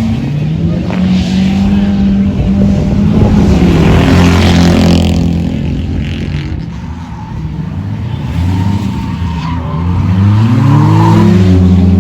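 Race car engines running as cars lap the track. One car passes close at its loudest about four seconds in, then the sound eases. Near the end an engine revs up with a rising pitch as a car accelerates.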